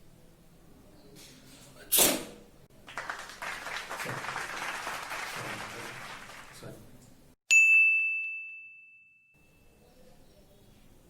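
A short, sharp sneeze about two seconds in, then several seconds of hissing noise, then a single bright bell ding that rings and fades over about a second and a half.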